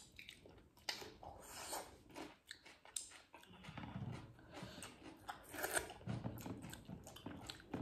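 Close-up crunchy chewing of a raw cucumber slice: irregular sharp crunches and wet chewing.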